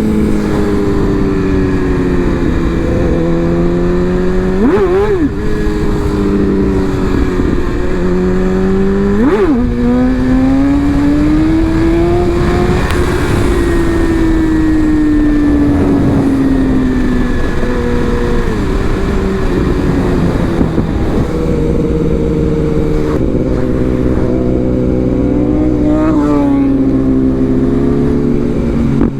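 Sport motorcycle engine running under way, its note rising and falling as the bike speeds up and slows, with a few quick sharp dips in pitch, over steady wind rush.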